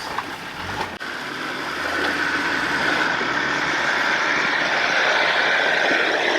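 Off-road 4WD vehicle engine running as it drives along the track, a steady mechanical sound with road and tyre noise. It gets louder about two seconds in and then holds steady.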